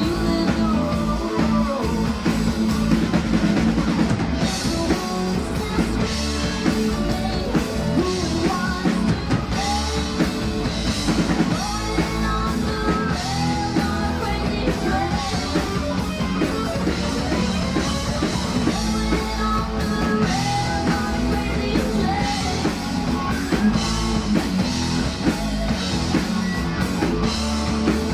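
Rock band playing a hard-rock song with a sung lead vocal, electric guitar and drum kit, steady and loud throughout.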